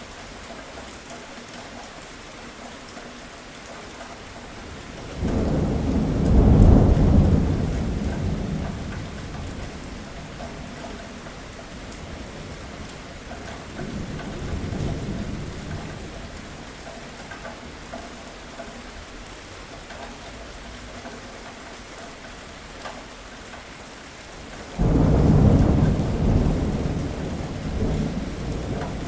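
Steady rain falling in a thunderstorm, with two loud rolls of thunder breaking in suddenly, about five seconds in and again near the end, each rumbling on for a few seconds as it dies away, and a softer rumble of thunder midway.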